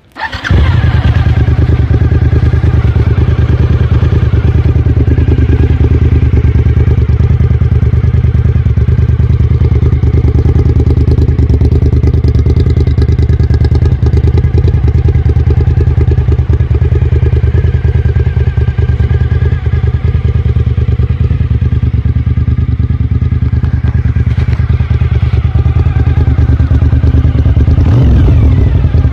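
A 2004 Suzuki SV1000S's 996 cc V-twin, running through an aftermarket Devil exhaust, starts up and settles into a loud, steady, deep idle. Its pitch rises briefly near the end with a light blip of the throttle.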